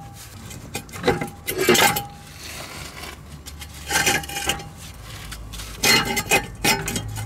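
Metal clanking: about six separate sharp knocks and clinks, some leaving a brief ringing tone, from steel parts being handled and knocked together during exhaust work.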